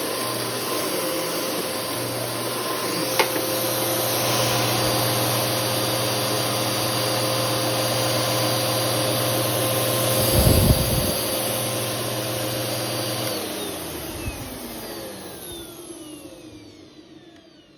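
Bissell CleanView Multi-Cyclonic 9595A 12-amp bagless upright vacuum running steadily, with a sharp click about three seconds in and a brief low thump about ten seconds in. About thirteen seconds in it is switched off and its motor winds down with a falling whine until it fades out.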